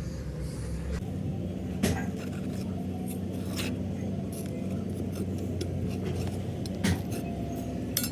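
Steady hum of running factory machinery, with a few sharp metallic clicks and knocks; the loudest come about two seconds in and again near seven seconds.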